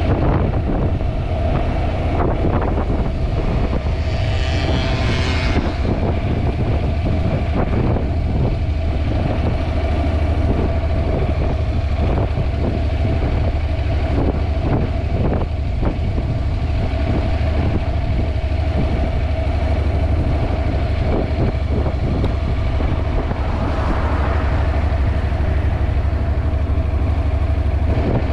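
Wind buffeting a GoPro's microphone during a motorcycle ride, a loud, steady low rumble, with the Honda NC750X's parallel-twin engine running underneath. A brief higher, rising hiss comes about four seconds in.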